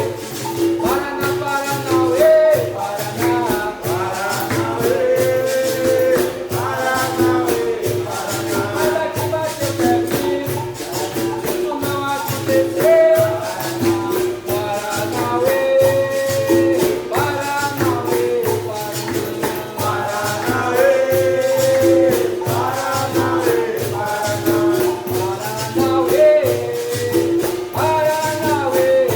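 Capoeira music: berimbaus repeating a two-note rhythm, with tambourine-like jingles and shaker sounds, and a voice singing over it.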